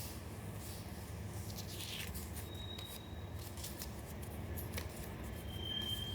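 Paper being handled for a collage: scattered light crackles and ticks of paper, a brief swish about two seconds in, and two short high squeaks, the second near the end, over a low steady room hum.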